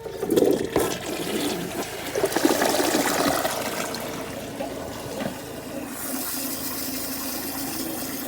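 2017 WaterRidge dual-flush toilet flushing: a sudden rush of water that lasts about six seconds, then changes to the steadier hiss of the tank refilling.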